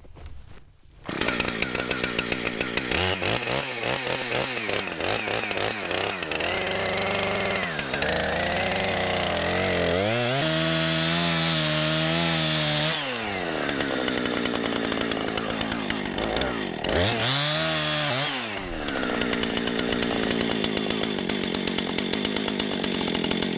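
Husqvarna 455 Rancher two-stroke chainsaw cutting through a hung-up ash trunk, its engine pitch rising and falling with the throttle and the load of the cut. It starts about a second in and stops abruptly at the end.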